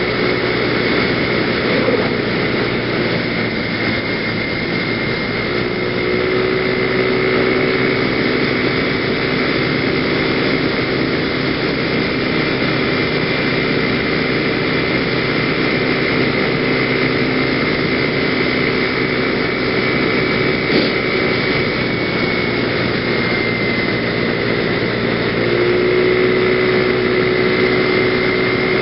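A PGO BuBu 125cc scooter's single-cylinder four-stroke engine runs at a steady cruise under a constant rush of wind on the helmet microphone. The engine note eases off a few seconds in, picks up again about six seconds in, and rises once more near the end.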